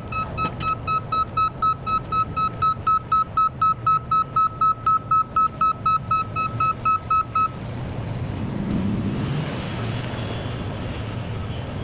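Heavy-equipment reversing alarm beeping steadily, about three beeps a second, over a running diesel engine; the beeping stops after about seven seconds and the engine carries on.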